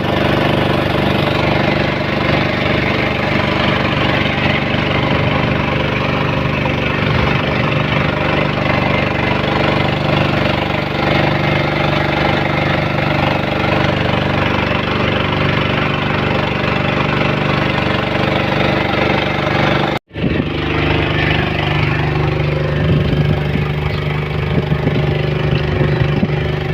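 An engine running steadily, cutting off abruptly about twenty seconds in and picking up again straight after.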